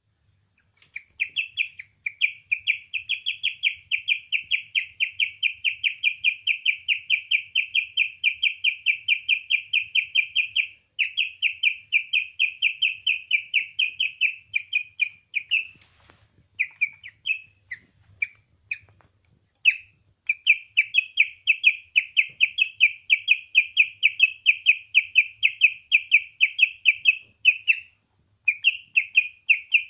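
Guinea pig chirping: a rapid, even run of high, bird-like chirps, about four to five a second, that falters into scattered chirps about halfway through and stops briefly near the end.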